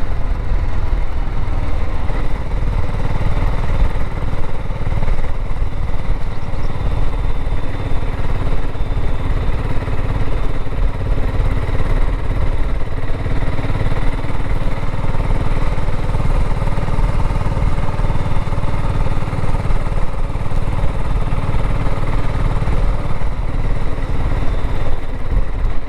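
BSA Gold Star 650 motorcycle engine running steadily at cruising speed, with wind rumble on the microphone.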